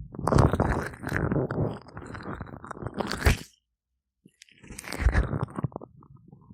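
Oiled, gloved hands rubbing and squeezing over microphone ears: close, squishy crackling friction in two long passes with a brief silent break between them, then softer crackles.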